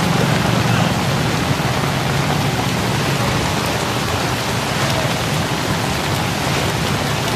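Heavy rain falling steadily, a dense even hiss of rain on surfaces. A low hum underneath fades out over the first few seconds.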